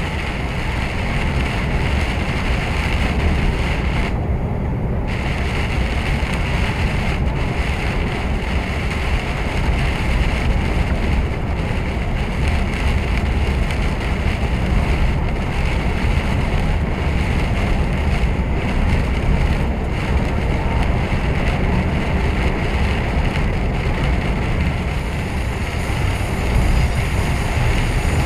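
Steady drone of a lorry on the move, heard from inside the cab: deep engine and road noise with a constant hiss on top.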